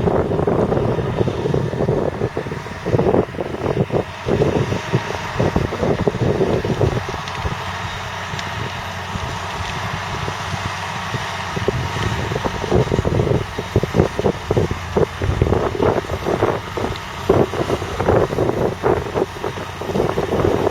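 Valtra T214 tractor's 7.4-litre six-cylinder diesel engine running, with irregular gusts of wind buffeting the microphone, calmer for a few seconds about a third of the way in.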